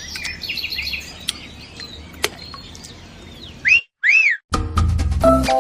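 Birds chirping and singing over a faint low hum, then two loud whistle-like glides that rise and fall, just before 4 s in. Upbeat music with a steady beat starts about four and a half seconds in.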